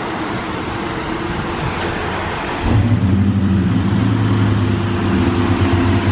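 A steady hiss, then about two and a half seconds in a car engine comes on and runs with a steady low hum.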